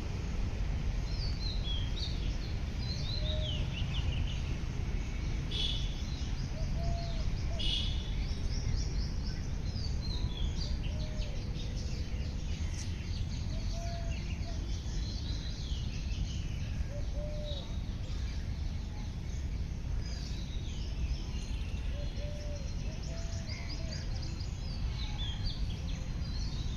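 Several birds singing and calling outdoors, with quick high chirping phrases throughout, and a short, lower, arched note repeating every couple of seconds. Under them is a steady low rumble.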